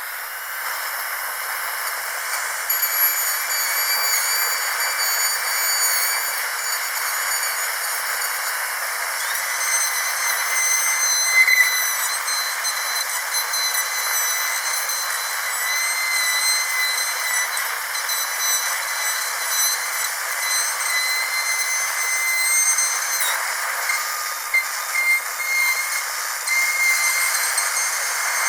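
Dentist's high-speed drill running: a thin, high-pitched whine over a steady hiss, the whine shifting in pitch a couple of times.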